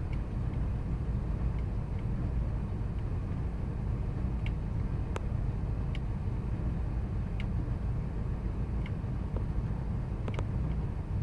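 2000 Ford Expedition's 5.4-litre V8 running at a rough idle: a steady low rumble with faint, irregular ticks scattered through it.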